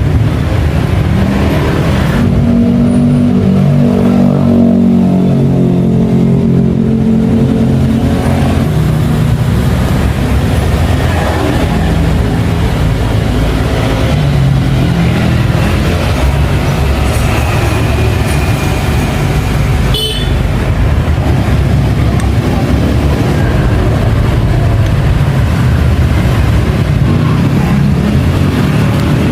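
An engine running without a break, its pitch shifting up and down, with a single sharp click about two-thirds of the way through.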